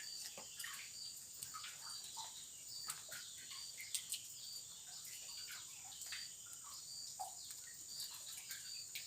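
Tropical forest ambience: a steady high-pitched insect drone with a short, regularly repeated high chirp a little faster than once a second. Scattered short calls lie beneath it, and a couple of sharp clicks come about four seconds in.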